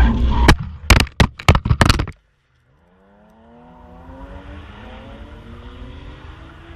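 BMW E36 Compact's 2.5-litre M52 straight-six at high revs with tyre noise while drifting, broken by a quick run of sharp cracks and knocks before the sound cuts off suddenly about two seconds in. After a short gap a much quieter engine note fades in, its pitch falling and then steadying.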